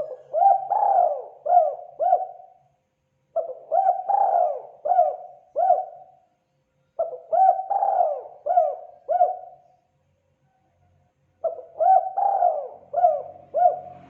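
Spotted dove (terkukur) cooing: four phrases of several rising-and-falling coo notes each, about a second apart.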